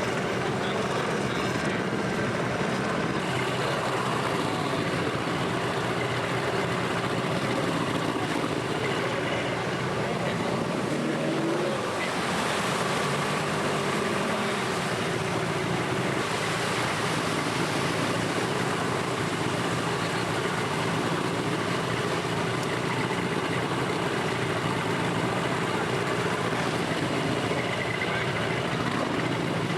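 A Zodiac raft's outboard motor running steadily under way, mixed with the rush of wind and water.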